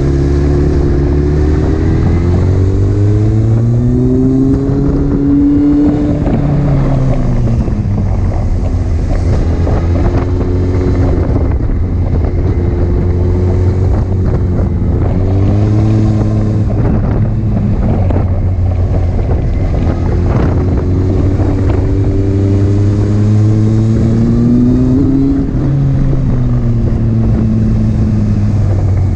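Honda CBR929RR's inline-four engine revving through the gears and dropping back between corners, its pitch climbing and falling several times.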